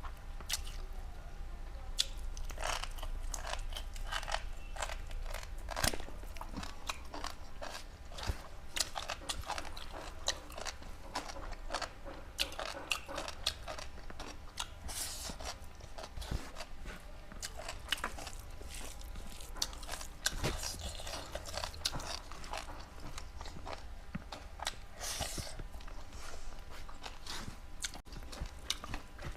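Close-miked eating of cooked meat: continuous wet chewing with irregular biting and crunching clicks.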